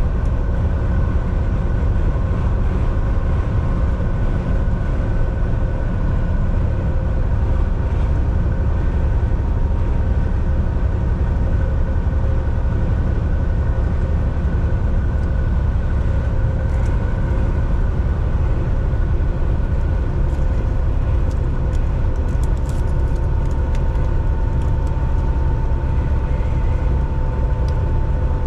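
Volvo VNL 760 semi truck cruising on the highway, heard from the driver's seat: a steady, loud low rumble of engine and road noise with a few steady whining tones over it, one of which sinks slightly lower near the end.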